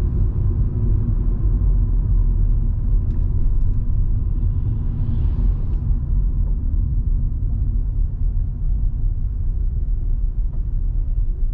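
Steady low rumble of a Volvo V70 2.5T on the move, heard from inside the cabin: its turbocharged five-cylinder engine running along with road and tyre noise.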